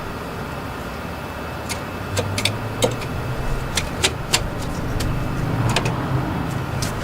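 Car jack being set under the car's jacking point and worked: scattered sharp metallic clicks and taps over a steady low rumble.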